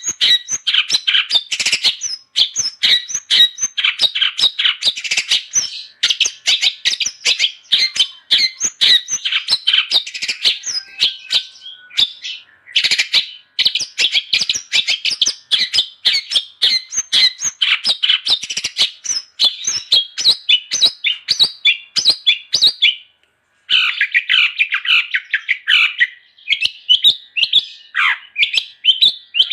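Long-tailed shrike (cendet) in full song, a rapid, dense stream of short, sharp chattering notes. The song breaks off briefly about twelve seconds in and again about twenty-three seconds in.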